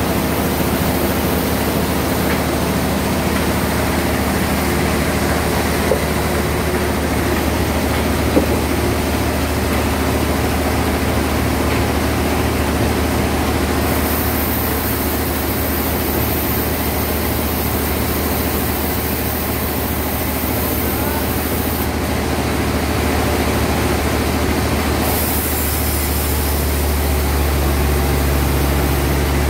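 Band sawmill running steadily with a low machine hum, while a higher hiss from the blade comes and goes as it cuts through a large log. A couple of faint clicks are heard.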